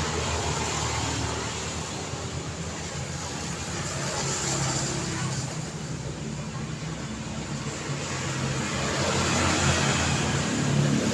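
Daytime road traffic: a continuous hum of engines and tyres that rises and falls as vehicles pass, growing louder toward the end.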